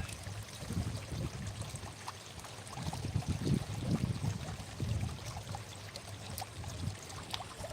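Running water, a steady wash with irregular low rumbles every second or so.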